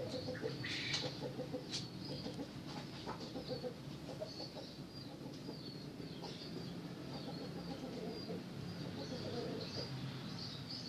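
Birds calling: a steady run of short high chirps, with a scatter of lower short notes beneath them.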